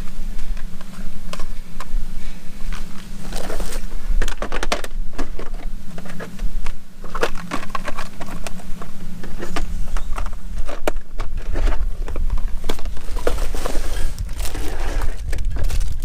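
Small tools and parts being handled and sorted by hand: irregular clicks, knocks and rustling, busiest a few seconds in and again near the end, over a steady low hum.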